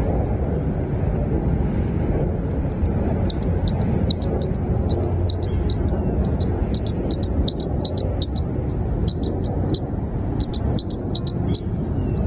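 Small birds giving many short, high chirps, starting about two seconds in and coming thickest in the middle, over a loud, steady low rumble.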